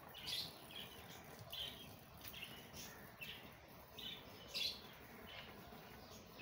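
A bird chirping repeatedly in short, high calls, about two a second, faint against quiet garden background noise.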